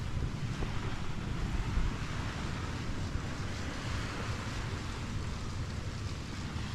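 Sea waves washing on a beach, with wind buffeting the microphone in a heavy, uneven rumble.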